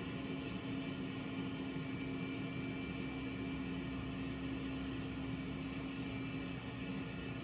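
Harvest machinery running steadily: an even engine hum with a constant drone and a hiss, without change.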